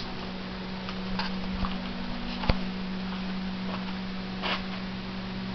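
Steady low hum with scattered light clicks and taps, and one sharper knock about two and a half seconds in.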